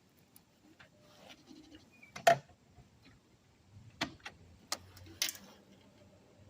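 A few sharp clicks and knocks, the loudest about two seconds in, as the motorcycle's key and switches are worked just before starting. A faint low hum comes in during the second half.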